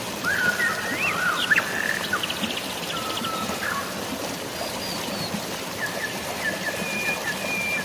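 Several birds chirping and whistling over a steady hiss of water: short rising and falling whistles and quick trills, with one rapid trill about two and a half seconds in.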